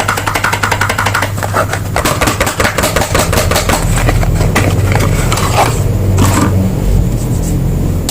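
Soap packaging being unwrapped: a fast run of crinkling, crackling plastic and paper, with a steady low hum underneath that gets louder from about halfway through.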